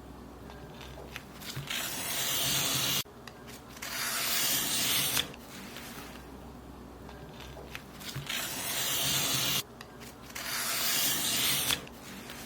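Paper being cut in four long hissing strokes, each about a second and a half long and ending abruptly, with faint clicks between the strokes.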